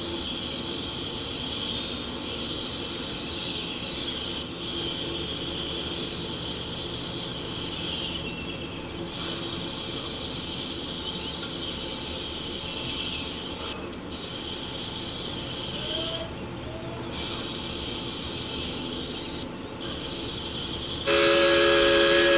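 Steam locomotive running with a steady hiss of steam that cuts out briefly a few times. Near the end its steam whistle sounds a steady chord.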